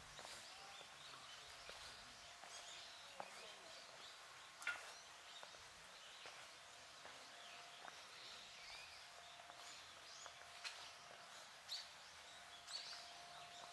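Near silence: faint outdoor ambience with scattered short bird chirps and a few light clicks.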